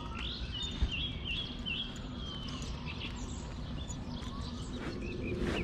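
Small birds chirping and twittering in quick runs of short notes, busiest in the first couple of seconds, over a steady low background noise.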